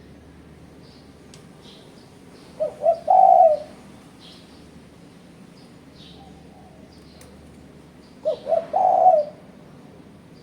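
Spotted dove (tekukur) cooing twice, each call two short notes followed by a longer rolling coo. Faint high chirps of small birds sound between the calls.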